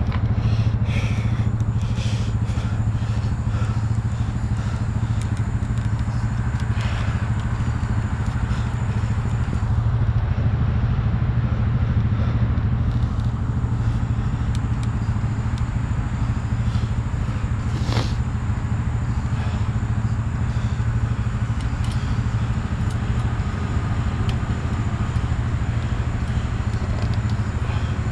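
Engine running steadily at a constant speed, with a few light clicks and clatters over it, one sharper click about two-thirds of the way through.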